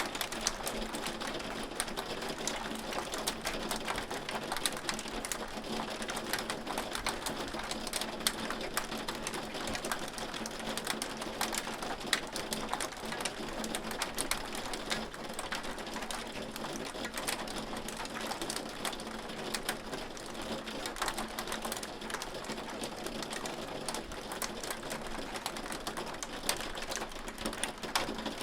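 Hail falling steadily, a dense rapid patter of small hard ticks over a continuous hiss, with a faint low hum underneath.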